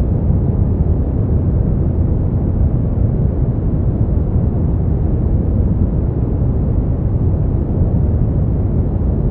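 Steady brown noise: an even, deep rumbling hiss, strongest in the bass and fading off toward the treble, with no changes.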